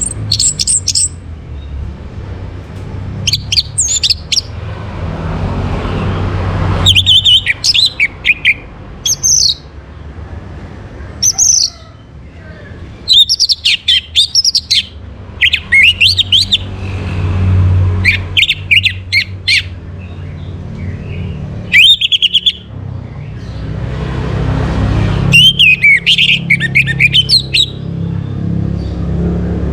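Orange-headed thrush singing: loud, varied whistled phrases in bursts of a few seconds with short pauses between, over a low background rumble that swells and fades.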